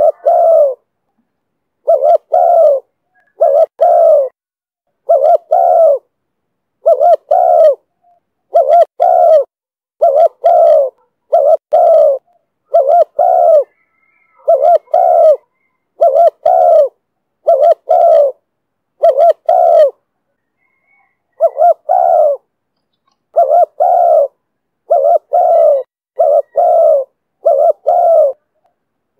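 Spotted dove cooing over and over in the 'thổ thúc bổi' call style, loud, low-pitched notes coming mostly in close pairs about every second, with one brief pause about two-thirds of the way through.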